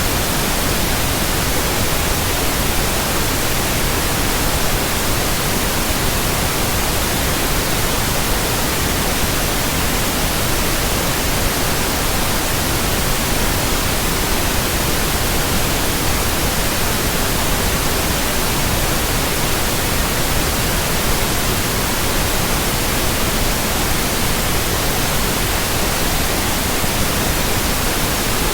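Steady, unbroken white noise: an even hiss spread across all frequencies, with no change in level.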